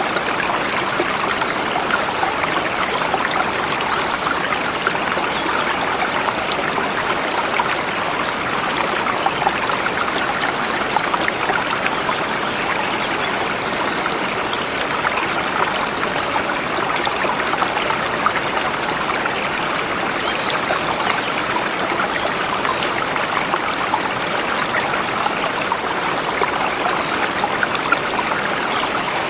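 Forest river flowing over smooth rocks: a steady rushing and babbling of water, even throughout.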